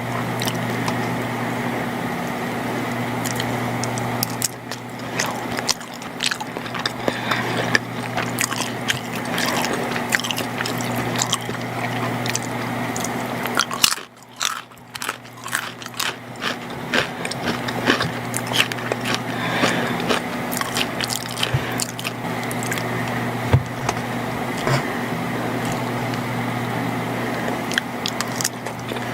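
Close-miked chewing of macaroni and cheese, with many small wet mouth clicks and squishes. A steady low hum runs underneath and drops out briefly about halfway through.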